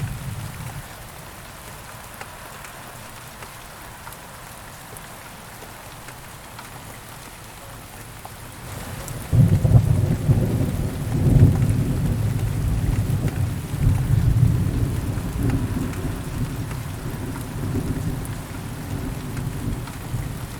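Thunderstorm: steady rain falling, then about nine seconds in a thunderclap breaks in suddenly and rolls on as a deep rumble, rising and falling over the rain for the rest of the time.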